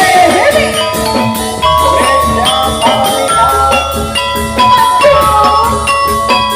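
Live Javanese gamelan music played by a barongan troupe: ringing metallophone notes over steady hand-drum strokes, with a gliding melody line above.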